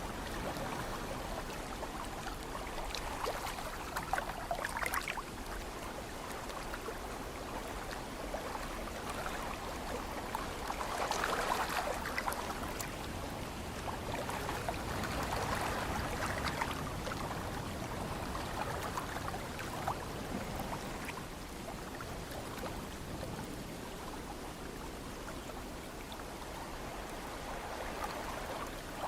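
Ocean waves washing in and receding: a steady rushing, fizzing water noise that swells every few seconds, loudest about eleven seconds in.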